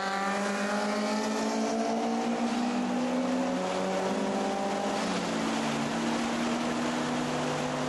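Turbocharged Nissan S13 Silvia engine under load, heard from inside the cabin. Its note climbs slowly, then drops a step about three seconds in and again around five to six seconds in, as it is driven hard on track.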